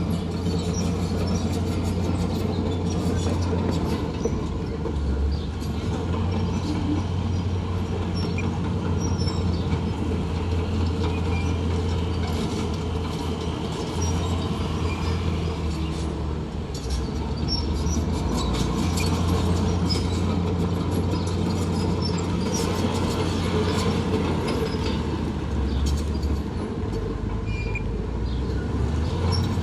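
Heavy diesel earthmoving machinery working, with a steady low engine drone and frequent metallic clanks and squeaks.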